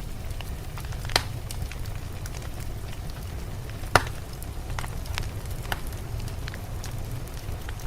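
Wood fire crackling in a fireplace: scattered snaps, with two louder pops about a second in and about four seconds in, over a steady low rumble.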